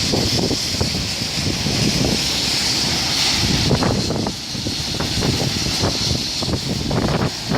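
Heavy rain hissing steadily, with wind buffeting the microphone in uneven low gusts.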